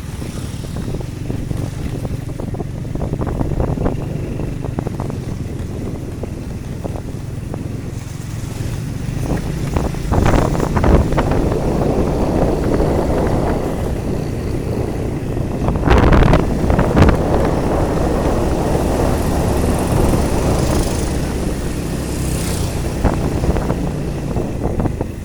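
Road noise from riding along a street: a vehicle engine running steadily, with wind rushing over the microphone and two louder swells of rushing noise about ten and sixteen seconds in.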